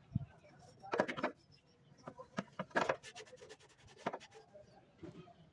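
A low thump near the start, then a series of sharp clicks and knocks in short clusters about one, three and four seconds in, like objects being handled and set down.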